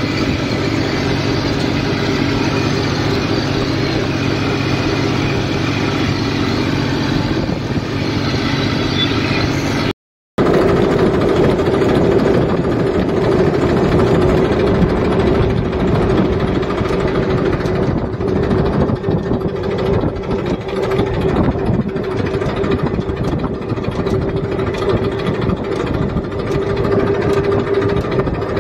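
Massey Ferguson tractor's diesel engine running steadily. After a brief cut about ten seconds in, the engine note is rougher, with a strong steady hum.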